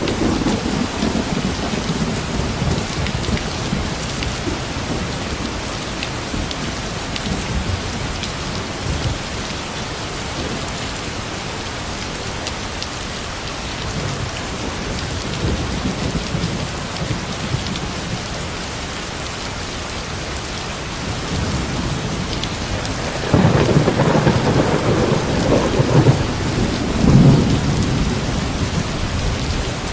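Steady heavy rain falling on surfaces, with thunder rumbling low. A louder roll of thunder comes about three-quarters of the way in and lasts several seconds.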